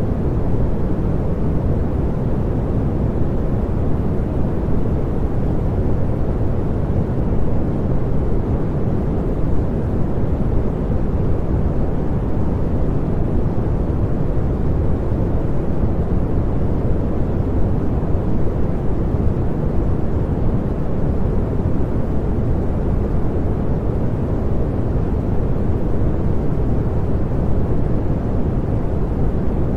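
Continuous pink noise: a steady, unchanging rushing hiss weighted toward the low end.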